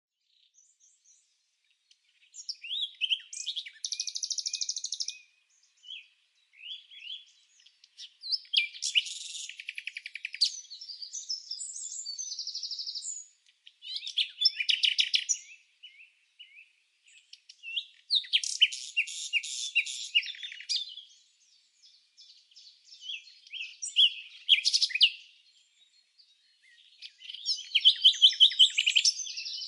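Songbirds singing: high chirping phrases and fast trills, about six bursts of a couple of seconds each with short pauses between them.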